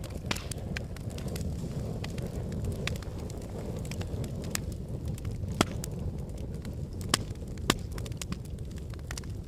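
Wood logs burning in a fireplace: a steady low rush of flame with frequent sharp crackles and pops. Three pops stand out clearly, the first about halfway through and two more a second or two later.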